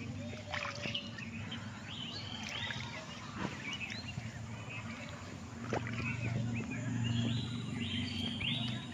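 Small birds chirping and calling over and over in short, quick rising and falling chirps, over a steady low hum.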